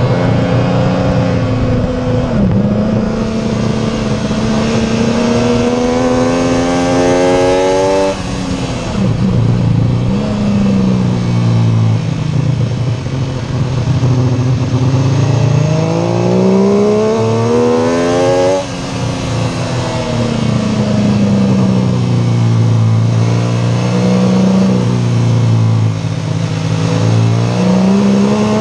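MV Agusta F3 675's inline three-cylinder engine heard from on board, its pitch climbing under hard acceleration, then falling abruptly about eight seconds in as the rider brakes and downshifts for a slow corner. It pulls up through the revs again and drops sharply once more a little past halfway, then wavers and climbs again near the end.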